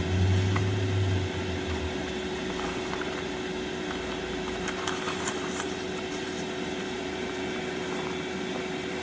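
Steady hum of a switched-on inverter welding machine's cooling fan, with a low rumble that dies away over the first two seconds and a few faint clicks from its selector knob and keys.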